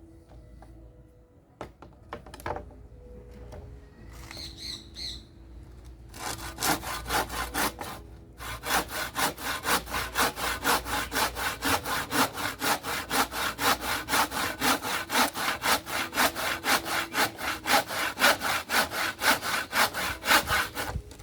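Hand saw cutting through wood in quick, even back-and-forth strokes, about three a second. It starts several seconds in, after a quieter stretch with a few scattered knocks.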